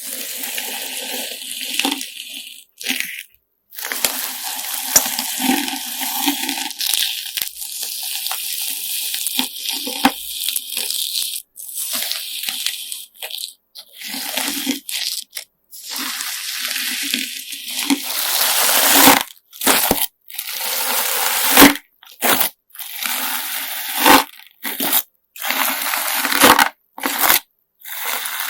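Homemade coloured-sand slime being squeezed and kneaded by hand, giving crunchy, squishy crackling in repeated bursts broken by short silences.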